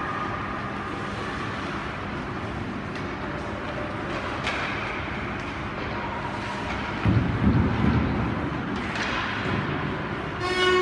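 Ice hockey rink game noise: a steady wash of skating on the ice with a few sharp stick-and-puck clacks, and a dull thump about seven seconds in. A horn-like pitched tone starts right at the end.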